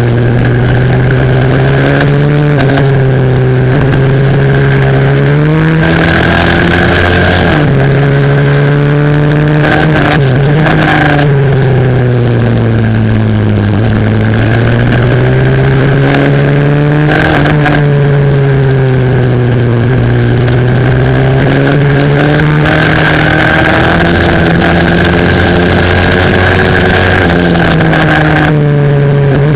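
140cc single-cylinder four-stroke pit bike engine racing, picked up close by an onboard camera: its pitch climbs as the bike accelerates and drops as the rider shuts off for corners, over and over.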